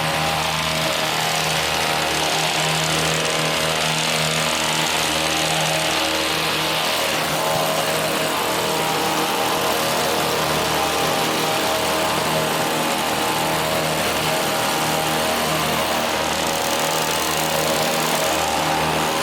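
Motorised hedge trimmer running steadily as it cuts a hedge, its small engine holding an even pitch.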